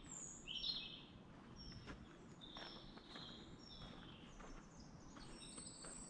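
Songbirds singing: a bright, busy phrase in the first second, then short high whistled notes repeating every half second or so.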